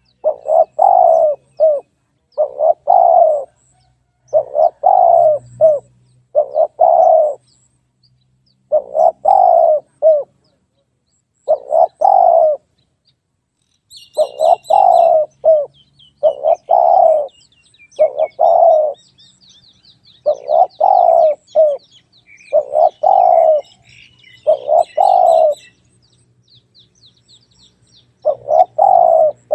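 Spotted dove cooing over and over in short repeated phrases with brief pauses between them. Higher chirps from smaller birds come in through the middle.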